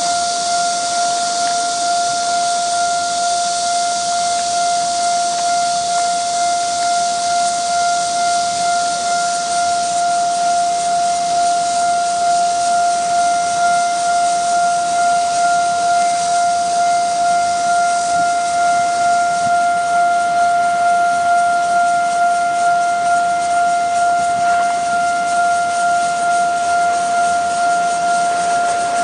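Railway level-crossing warning bell sounding without a break, a single steady electronic tone with a slight even pulse, signalling that a train is about to pass and the barriers are down. A steady high hiss runs under it and thins out about two-thirds of the way through.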